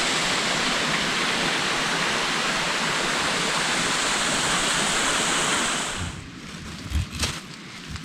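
Steady rush of falling water from a waterfall. It cuts off suddenly about six seconds in and gives way to the sharp crackles and pops of a campfire.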